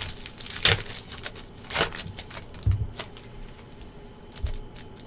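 2020-21 Panini NBA Hoops trading cards being handled, with quick rustles and swishes of cards sliding against each other about once a second and a couple of soft knocks on the table.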